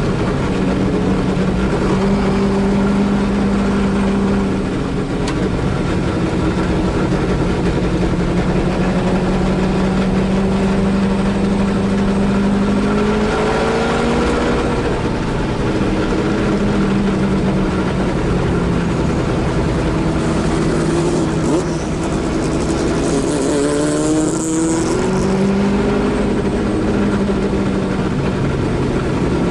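Holden Torana A9X Group C race car's V8 engine at racing speed, heard from inside the car. It holds a steady note for long stretches, and rises in pitch under acceleration about halfway through and again later on.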